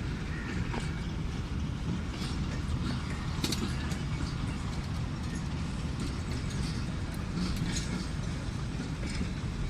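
Passenger train rolling slowly out of the station with a steady low rumble, broken by a few short, sharp clanks, clearest about three and a half seconds in and again near eight seconds.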